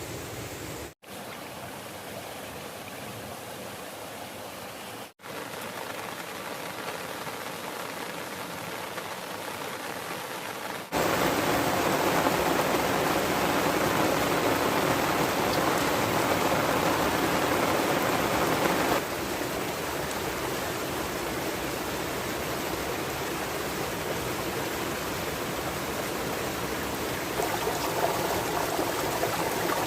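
Steady rushing of water, heavy rain and a river, in a run of cut-together shots. It drops out for an instant twice in the first five seconds, jumps louder about eleven seconds in, and eases back a little around nineteen seconds.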